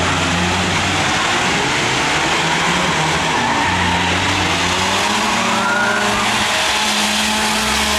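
Several race car engines running and revving at once on the track, their pitches rising and falling.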